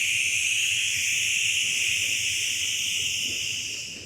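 A long, whispered, breathy "heeee" exhale: the Taoist triple heater healing sound, held steadily and fading away near the end.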